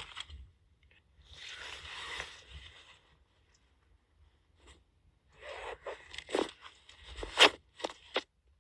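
Crinkly nylon camping gear being handled while the sleep system is set up: a rustle about a second in, then a run of crackles and sharp clicks near the end.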